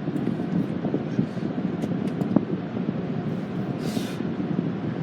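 Automatic car wash tunnel machinery heard from inside a car: a steady low rumble of running equipment, with a short hiss about four seconds in.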